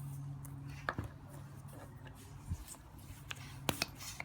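Light handling noise of a football being turned and rolled in the hands to spread the egg-white sealant inside: scattered soft clicks and taps, with two sharper taps close together near the end.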